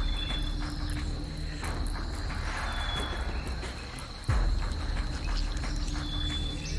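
Insects trilling in a steady high drone, with a short call just below it repeating about every three seconds. A low rumble runs underneath and steps up suddenly about four seconds in.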